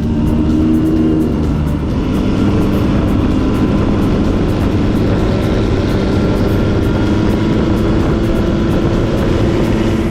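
Motorcycle engine running steadily under way, its pitch slowly rising over the stretch, over a low road rumble.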